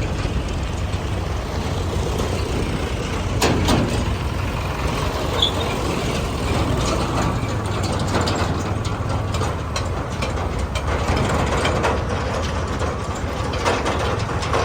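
Diesel engines of a backhoe loader and tractor running steadily at work, with a few sharp clanks, the clearest about three and a half seconds in.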